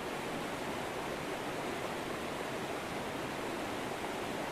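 River current flowing: a steady, even rush of water with no breaks.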